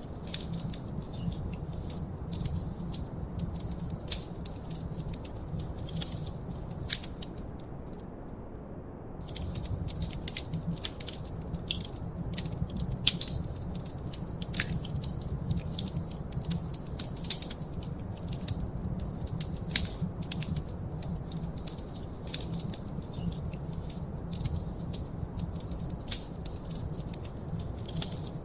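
Wood fire crackling in a fireplace: irregular sharp crackles and occasional louder pops over a steady low rumble of the flames. The crackling stops for a moment about eight seconds in.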